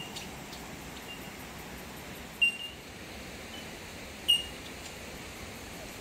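Short, high-pitched bird chirps, single clear notes a second or two apart, the two loudest about two and a half and four and a half seconds in, over a steady outdoor hiss.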